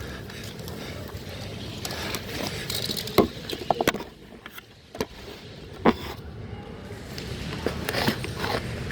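Rustling and wind on a body-worn camera as an airsoft player moves across the field, with a few sharp cracks: one about three seconds in, a quick cluster just after it, and one more near six seconds.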